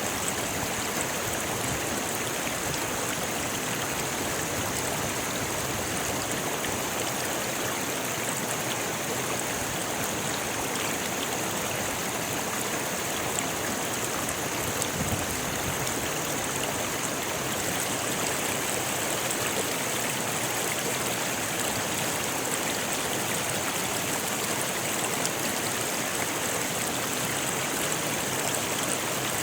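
Rocky river rushing steadily over stones: a constant, even roar of water with no breaks. A steady high-pitched hiss rides on top and grows a little stronger about halfway through.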